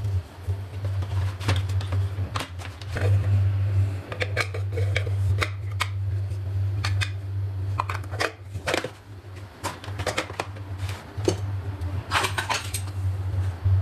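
Kitchen utensils being handled and set into a drawer organizer: irregular light clicks, taps and clatter over a steady low hum.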